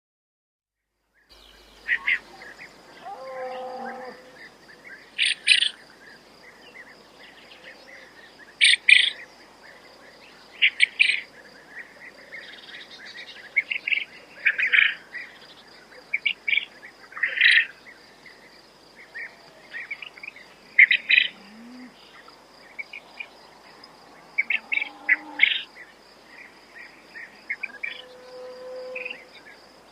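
Quail calling in short clipped phrases of a few quick notes, repeated every few seconds, over a continuous high insect trill. It begins about a second in.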